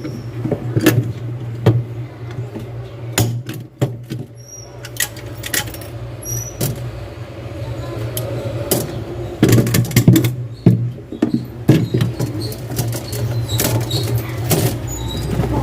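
Irregular sharp clicks and light knocks of hand tools on metal during refrigerator repair work, a cluster of louder ones in the middle, over a steady low hum.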